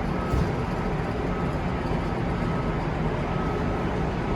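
Steady background noise: a low rumble with hiss above it and no distinct event. A faint, thin high tone comes and goes.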